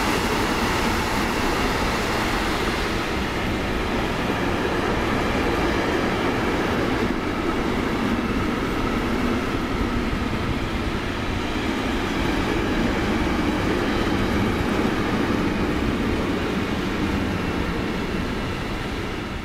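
A train passing on the line: a steady rumble of wheels on rail that lasts throughout, its hiss dulling a few seconds in.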